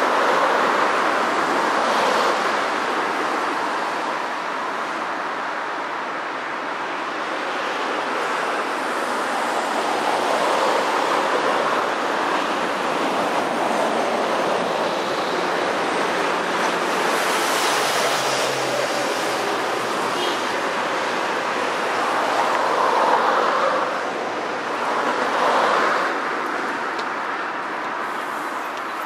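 Electric locomotive hauling a container freight train, approaching at low speed: a steady rushing rumble of the train on the track.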